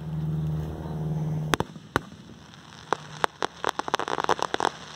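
Aerial fireworks: two sharp bangs of shells bursting about a second and a half in, followed by a quick run of crackling pops from crackling stars. A steady low hum sits under the first second and a half.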